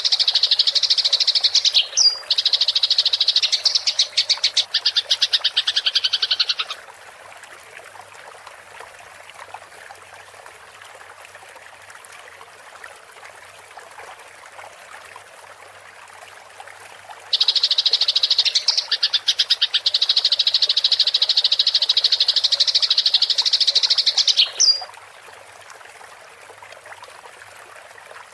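Eurasian tree sparrows giving their rapid, rolling fight chatter, a dense run of quick high notes lasting about seven seconds, then again for about seven seconds from roughly the middle of the clip. Between and after the runs, quieter running water fills the pauses.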